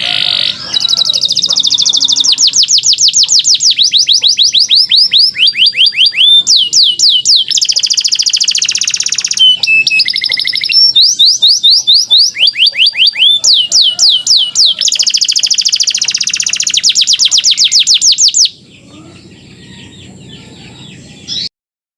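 Canary singing in long, loud, fast trills, each a rapid run of repeated falling whistled notes, phrase after phrase with brief changes of note. The song stops about 18 seconds in, leaving only a faint background.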